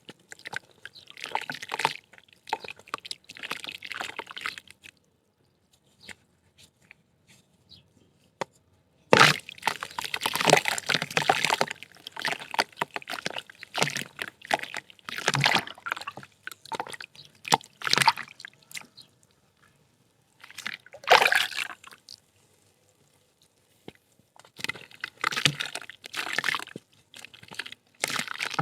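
Lumps of soft mud dirt crumbling wet in water, with sloshing and dripping. It comes in irregular bursts of a few seconds, separated by short quiet pauses.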